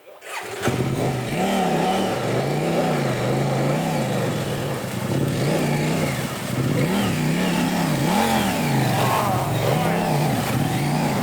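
Motorcycle engine revving up and down repeatedly, roughly once a second, as the bike is ridden through a river crossing. The engine picks up about half a second in.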